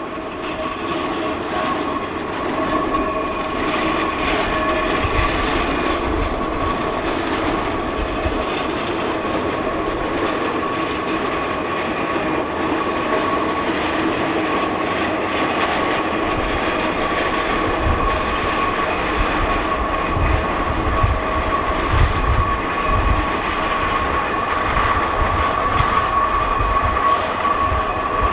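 Geared steam locomotive and its train rolling along the track, with a steady high-pitched squeal held throughout over a noisy rumble; low thumping and clanking grows stronger in the second half.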